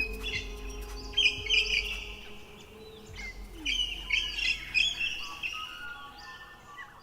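Birds chirping and calling in quick repeated bursts, over a low steady background tone that fades out partway through.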